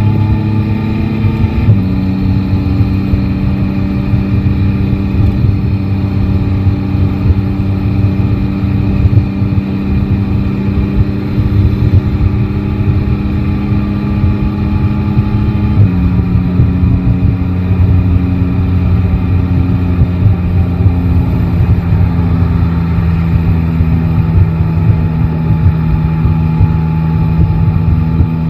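Yamaha Tracer 9 GT's three-cylinder engine running steadily under way. Its pitch drops a little twice, about two seconds in and again about halfway through, as engine speed changes.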